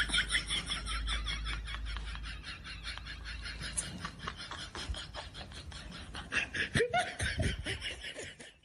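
High-pitched laughing sound effect: a long run of quick, even giggle pulses, with a louder burst of laughter near the end before it cuts off.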